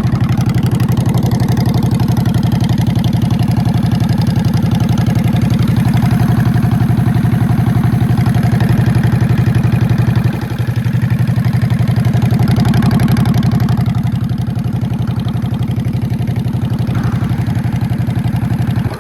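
Motorcycle engine idling steadily, with an even, rapid pulse; it drops a little in level about ten seconds in.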